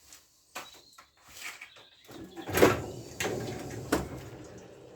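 Knocks, clunks and rattling of a scooter being wheeled over and handled, with a loud clunk about two and a half seconds in and another about a second later.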